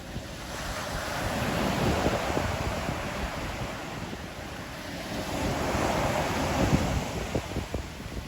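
Sea waves washing onto the shore, two swells of surf about four seconds apart that rise and fall away, with wind rumbling on the microphone.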